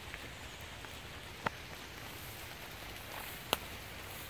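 Light rain falling steadily on the surrounding leaves and undergrowth, with two sharper drop-like ticks standing out, one about a second and a half in and one later.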